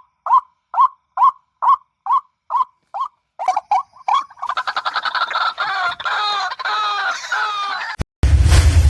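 White-breasted waterhen calling: a string of single clucking calls about two a second, breaking about halfway into a fast, wavering chatter of overlapping calls. It cuts off suddenly near the end, where a loud low rumbling noise takes over.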